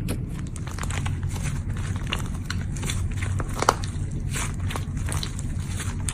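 Slime being handled, with many small crackling clicks and pops over a steady low hum; one louder pop comes a little past halfway.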